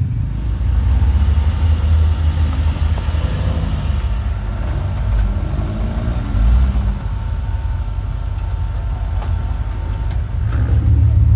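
Off-road truck engine running steadily at low revs.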